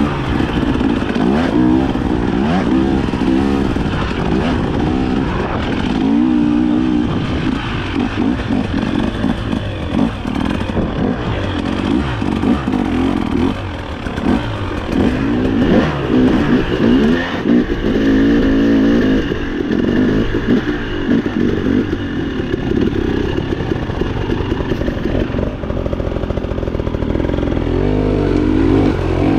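Dirt bike engine being ridden, its pitch rising and falling continually as the throttle opens and closes.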